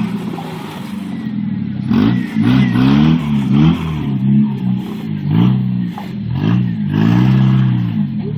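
Jeep Wrangler TJ engine revving up and down under load on a rock climb. The revs sit lower and steadier for about two seconds, then rise and fall in quick repeated throttle bursts.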